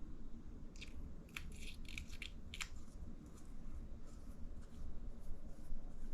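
A quick run of small clicks and crackles from small plastic shock parts being handled on the workbench, mostly in the first half, over a low steady room rumble.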